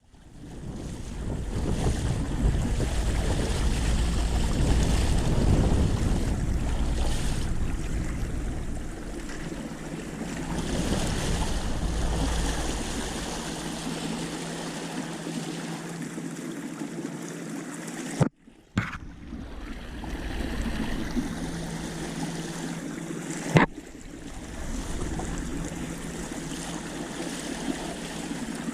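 Wind buffeting the microphone over water lapping, louder in the first half. The sound cuts out for a moment about two-thirds of the way through, and a single sharp click follows a few seconds later.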